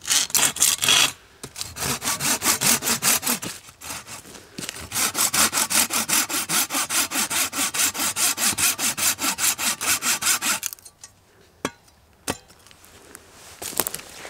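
Hand saw cutting through a wooden branch with quick back-and-forth strokes, in three bouts, the longest stopping about ten and a half seconds in; a few faint clicks follow.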